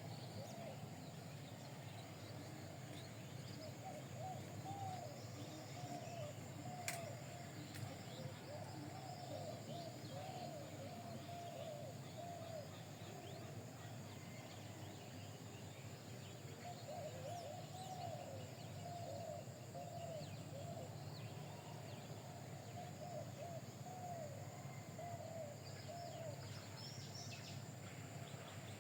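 Birds calling faintly: clusters of short, low, bending calls repeated in runs, over a steady low hum and a faint high hiss, with a single sharp click about seven seconds in.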